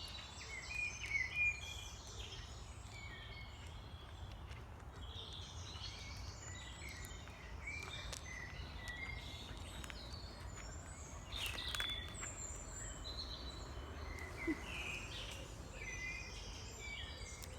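Several songbirds singing and calling at once in woodland, short overlapping phrases and chirps throughout, over a steady low rumble.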